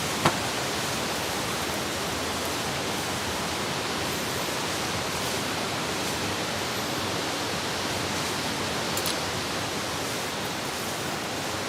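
Steady, even hiss of falling or running water, with one sharp tick about a quarter second in and a fainter one near the end.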